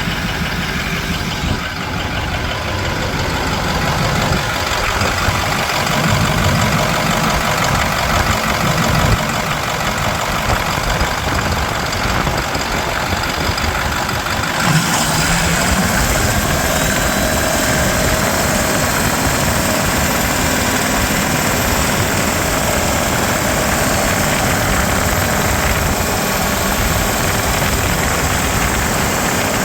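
2011 International MaxxForce 7 6.4-litre V8 diesel engine running steadily at idle. About halfway through the sound brightens and a faint high whine comes in.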